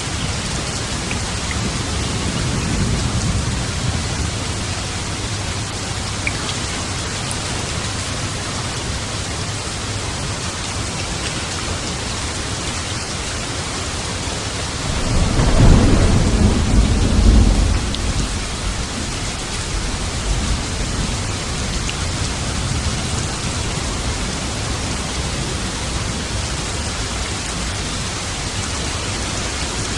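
Steady heavy rain falling, with thunder: a low rumble a few seconds in and a louder, deep roll of thunder about halfway through, lasting roughly three seconds.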